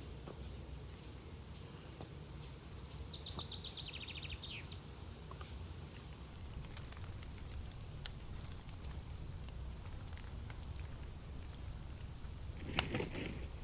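Campfire crackling, with scattered sharp pops over a steady low rumble. About two seconds in, a bird sings a fast trill that falls in pitch and lasts about two seconds. Near the end comes a brief rush of noise.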